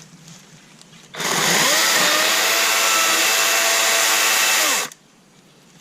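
Kobalt 24V brushless battery chainsaw triggered for a short cut into dead wood. The motor and chain whine up to speed about a second in, hold a steady pitch for nearly four seconds, then wind down and stop.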